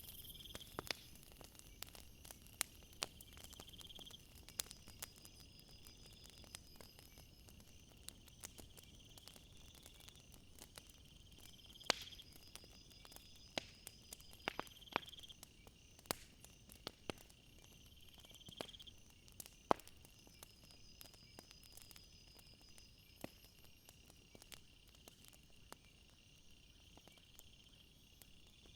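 Crickets chirping: a steady high chirring, with a trill that comes back about every three to four seconds. Scattered sharp clicks and pops sound through it.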